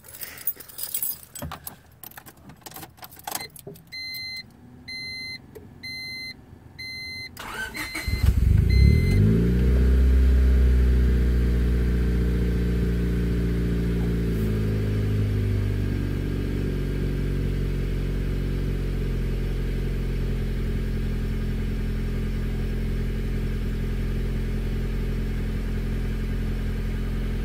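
Keys rattle and click in the ignition, a dashboard chime beeps several times, then a Honda Civic's turbocharged D16Y7 1.6-litre four-cylinder cranks briefly and catches about eight seconds in. It runs at a raised idle on a semi-warm start, then settles to a steady idle.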